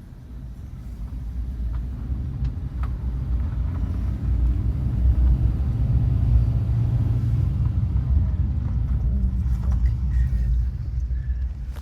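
A motor vehicle passing close by: a low rumble that builds over several seconds, holds, and fades away near the end.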